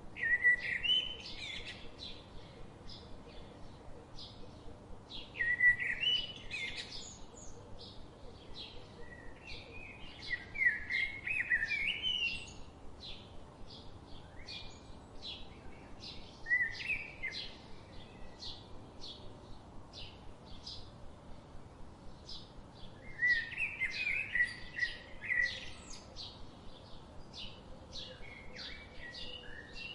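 Birdsong: a bird repeats short high chirps several times a second throughout. Louder warbling song phrases break in five times.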